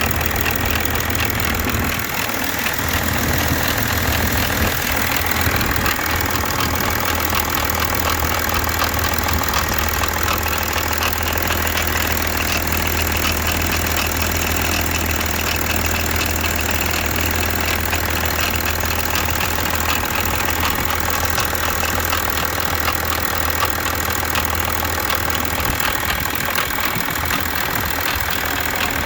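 BMW 730d E65's M57N2 straight-six turbodiesel idling steadily with a fast, even ticking clatter, a noise the owner links to the timing chain.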